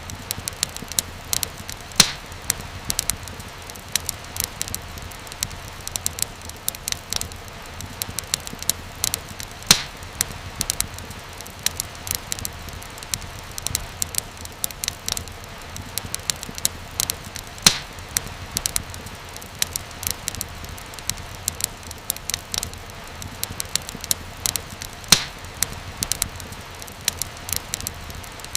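Fireplace wood fire crackling steadily, with many small pops and a louder snap about every seven or eight seconds.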